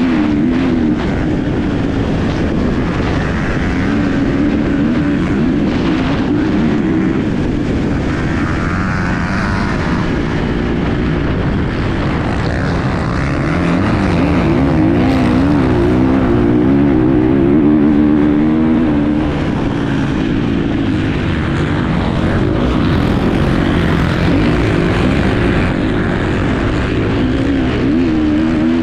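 Enduro motorcycle engine recorded on board while racing, its pitch rising and falling constantly as the throttle is worked over rough terrain, over a wide rush of wind and ground noise.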